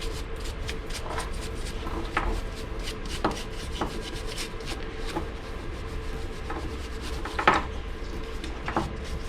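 Rubbing and brushing as dust is wiped off a part of a diesel air heater by hand, with scattered light clicks and knocks as the part is handled.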